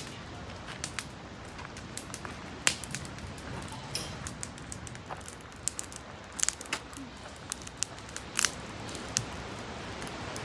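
Campfire wood crackling, with irregular sharp pops scattered through a low steady hiss.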